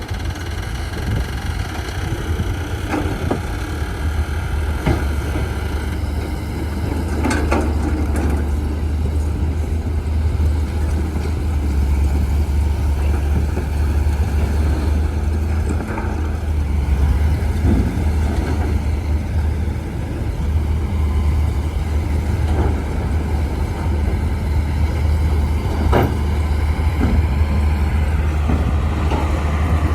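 Bulldozer's diesel engine running steadily with a low rumble, with a few short metallic knocks, the clearest about seven seconds in and again near the end.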